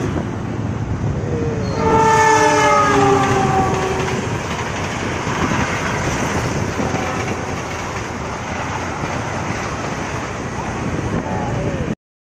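Passenger train running past close by, with the steady noise of the coaches on the track. About two seconds in, the locomotive horn sounds for about two seconds: a chord of several tones that sags slightly in pitch. The sound cuts off suddenly near the end.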